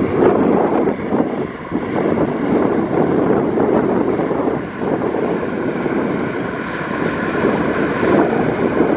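Heavy earthmoving machinery running: a loud, steady, rough diesel engine drone.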